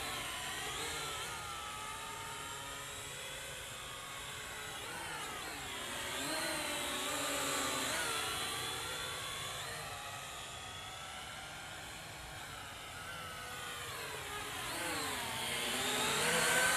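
Syma X8HG quadcopter's four electric motors and propellers whining, the pitch rising and falling together as the throttle changes. It grows louder about halfway through and again near the end.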